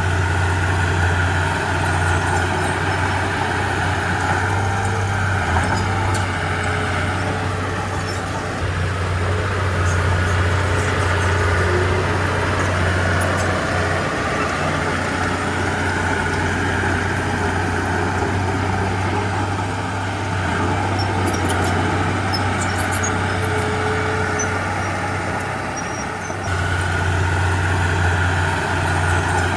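Heavy diesel engine of earthmoving machinery running steadily under work, its level easing and picking up again a few times.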